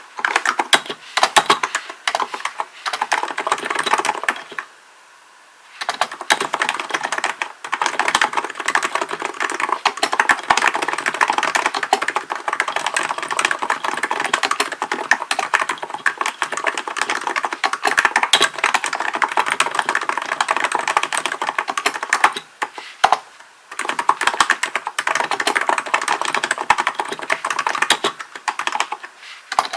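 Fast, continuous typing on a Hansung GK898B electro-capacitive (non-contact) keyboard, a dense run of keystrokes. It stops for about a second and a half a few seconds in, then runs on with another brief pause later.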